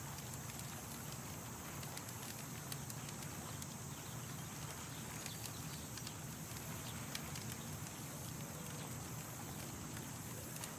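Campfire crackling, with irregular sharp pops and ticks over a steady background hiss.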